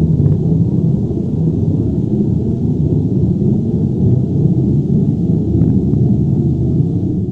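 Earthquake/avalanche rumble sound effect: a deep, steady rumble of low noise, with a couple of faint clicks in it.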